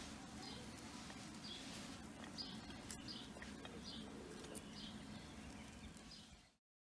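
Faint outdoor background with a small bird chirping in short repeated calls, roughly once a second, over a low steady hum; the sound cuts off near the end.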